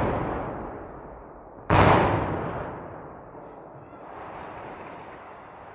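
Explosive demolition charges going off: a sudden loud blast about two seconds in that fades over a second or so, following the fading tail of an earlier blast. A steady noise holds after it.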